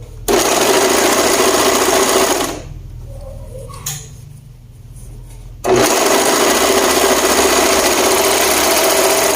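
Electric sewing machine running in two bursts of stitching, the first about two seconds long and the second about three and a half, with a pause of about three seconds between them.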